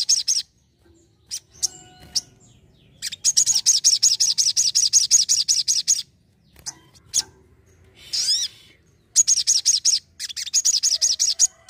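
A sogon singing: runs of fast, evenly repeated high notes, about seven a second, the longest lasting about three seconds, broken up by a few single chips and one brief sweeping call.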